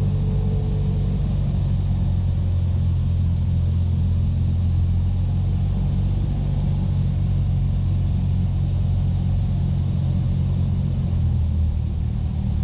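Cessna 172's engine and propeller droning steadily in the cabin on final approach. About eleven seconds in the note drops slightly as power is eased back for landing.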